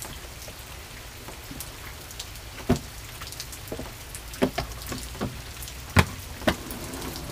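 Steady rain, with scattered sharp drips or taps close by; the two loudest come about three seconds in and about six seconds in.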